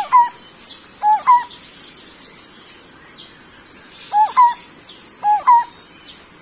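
Lineated barbet (takur bultok) calling: four short two-note calls, a lower hooked note then a higher one, coming in two pairs with a pause of about three seconds between them. It is a soft, dove-like call that can be taken for a zebra dove's.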